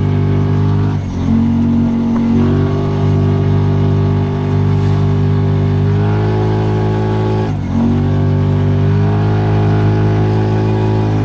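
Kawasaki Teryx 4 side-by-side's V-twin engine running at steady throttle, its revs dropping briefly about a second in and again near eight seconds in, then climbing back.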